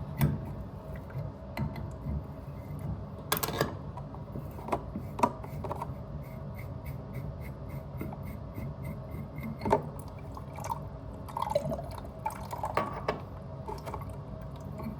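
Water dripping from a drained supply pipe while metal tools click and knock against the fitting as a leaking compression valve is worked off. The loudest knocks come about three and a half seconds in and again near ten seconds.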